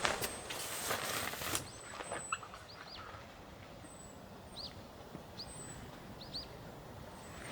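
Clicking and rustling for the first second and a half, then small birds calling: short arched chirps repeated every second or so, with faint thin high notes.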